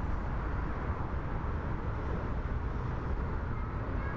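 Steady low rumble of airport aircraft noise, even throughout with no distinct events.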